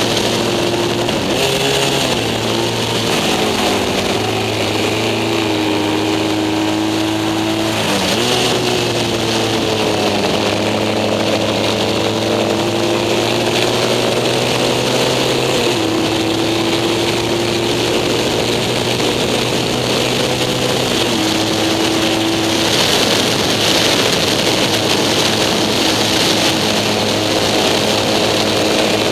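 Racing sidecar outfit's engine running hard at high revs, heard onboard, its pitch stepping up and down several times with gear changes and throttle through the corners, over a steady hiss.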